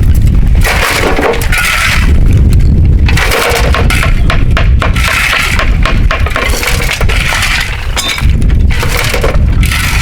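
Bamboo cracking and clattering as it is worked, with many sharp cracks over a steady low rumble.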